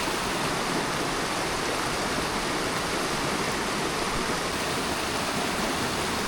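Steady rush of a rain-swollen river running high with runoff, mixed with the hiss of steady rainfall.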